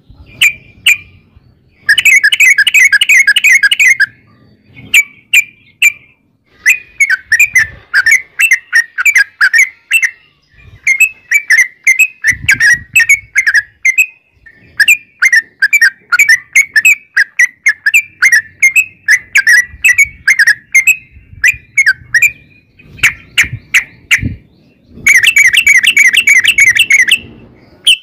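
Yellow-vented bulbul (trucukan) singing a long, fast run of bubbling, chattering notes, with dense rapid rattling bursts about two seconds in and again near the end.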